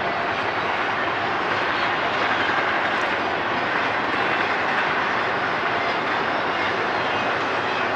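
Freight train rolling past: a steady, unbroken noise of wheels on rail and cars going by.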